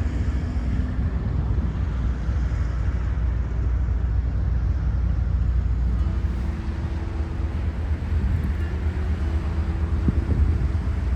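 A departing fishing boat's engine running steadily over heavy low-pitched noise, with a steadier engine tone coming in about halfway through.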